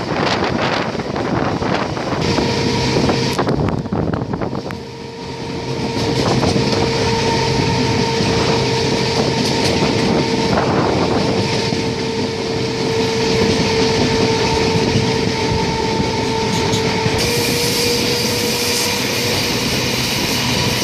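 Passenger train running along the track, heard from aboard at an open window: a steady rolling rumble and rush of rail noise. A steady humming tone sets in about two seconds in and holds until near the end, and a brighter hiss rises in the last few seconds.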